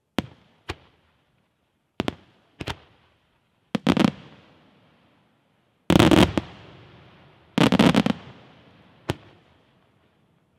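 Aerial firework shells bursting in a series of sharp bangs, each with a short echo. The bangs come singly at first, then in dense rapid clusters about two-thirds of the way through, ending with one last bang near the end.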